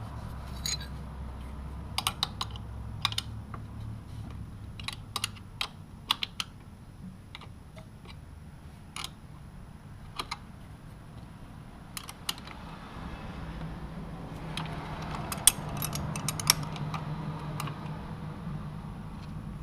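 Hand tools and metal parts clicking and tapping during work on a motorcycle shift lever: irregular sharp clicks, sometimes in quick pairs, with a denser run of them about three-quarters of the way through.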